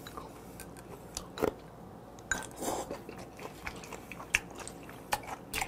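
Close-miked chewing of live-squid mulhoe, chewy raw squid and crisp ice-chilled vegetables, heard as a few scattered soft crunches and clicks.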